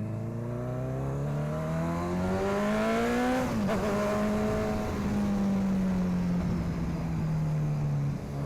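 Honda CB1000R's inline-four engine through a sport exhaust, revs climbing steadily for about three seconds, then dropping sharply at an upshift. It then holds an even note that slowly eases off as the bike cruises.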